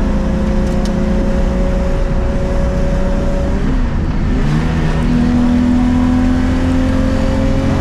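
Rally car engine under hard load, heard from inside the cabin. It runs steadily, then lifts off briefly about four seconds in and pulls again, its pitch climbing slowly.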